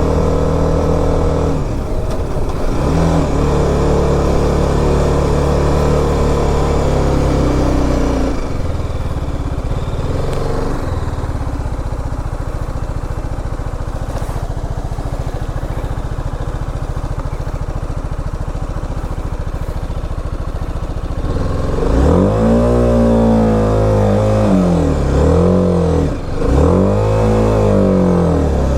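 BMW G 310 RR's single-cylinder engine running steadily, then revving up and down several times, its pitch rising and falling, in the last seven seconds or so.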